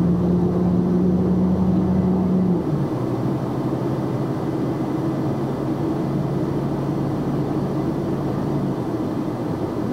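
A box truck's engine runs steadily over road and tyre noise, heard from inside the cab. A little under three seconds in, the engine note drops to a lower pitch and holds there.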